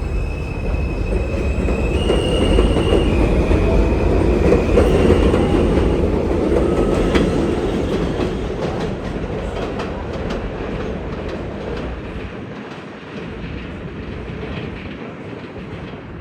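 Alstom R160A subway train moving off, its traction motors whining over a heavy rumble of wheels on rail. The sound is loudest a few seconds in, then fades as the wheels clack over rail joints.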